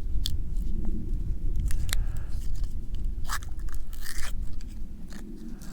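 Close handling noise of fishing tackle and a plastic PowerBait container: scattered sharp clicks, scrapes and crinkling, over a steady low rumble.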